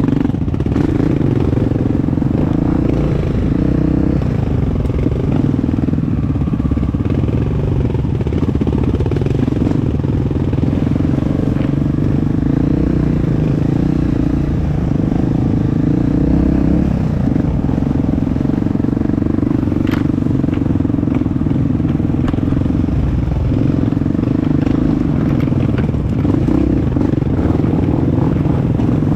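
Honda CRF four-stroke off-road motorcycle engine running steadily under riding load, its pitch shifting only slightly, with a sharp click about two-thirds of the way through.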